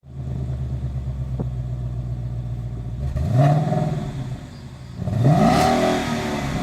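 Ford Mustang GT 5.0 V8 exhaust idling, then revved twice with quick throttle blips that rise and fall back to idle.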